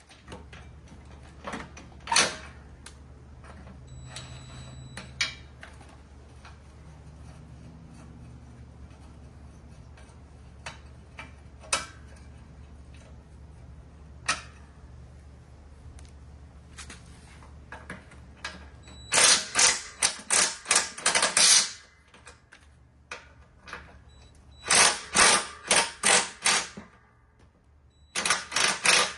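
Hand tools on the mower deck's spindle hardware: scattered single metal clicks and knocks, then runs of rapid, loud clicking, about five clicks a second for a couple of seconds each, as a socket ratchet wrench is worked. A low steady hum underneath stops when the first run of clicking starts, about two-thirds of the way in.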